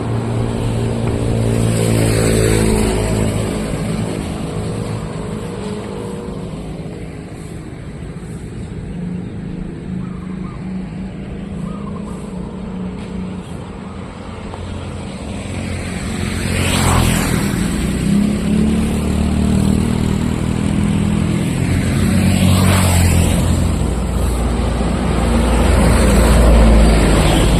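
Street traffic: motor vehicles drive by one after another, several passing close with a rushing sweep. An engine runs near the start, and the passes are loudest in the second half.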